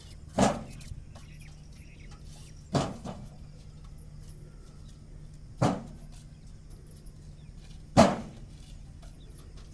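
Bricks landing one load at a time on a stack, four sharp clacks about two and a half seconds apart, over the steady low hum of an idling truck engine.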